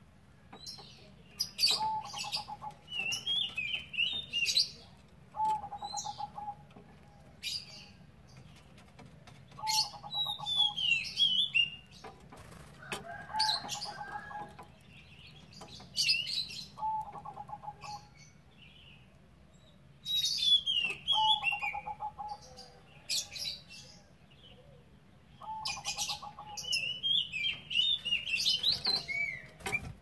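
Birds chirping in short bursts every two seconds or so: high, bubbly twitters that slide up and down, with a lower rapid trilling note in each burst. Sharp clicks come between the calls, over a low steady hum.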